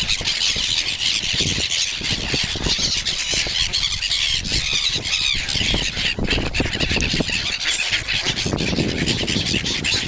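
A crowd of hungry swans and ducks calling over one another in a dense, unbroken chorus of high calls, as birds do when they gather to be fed.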